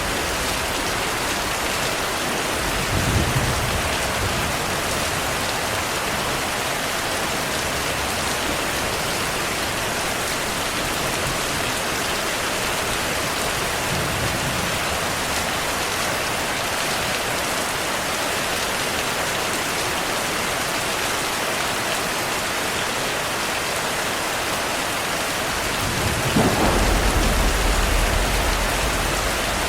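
Steady heavy rain hissing, with low thunder rumbles: a brief one about three seconds in, a faint one midway, and a longer, louder rumble near the end.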